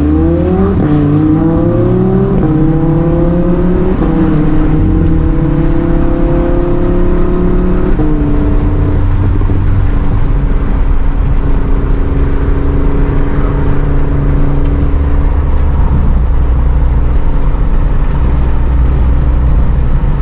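Car engine accelerating hard, its pitch climbing and dropping back at each of several upshifts over the first eight seconds, then holding a steady note while cruising.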